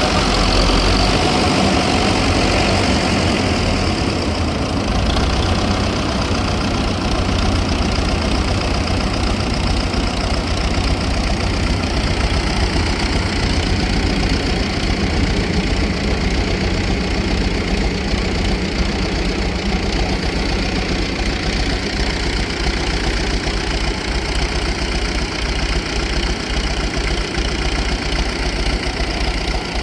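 An engine running steadily at an even speed, with a fast regular firing beat in the low end.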